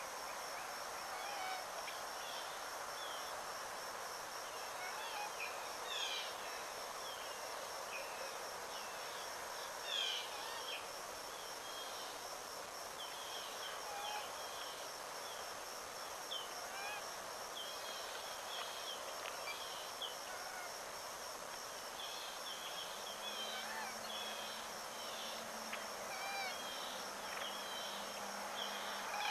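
Wild birds chirping with many short calls, over a steady high pulsing trill of insects. A low, steady hooting tone joins in about three-quarters of the way through.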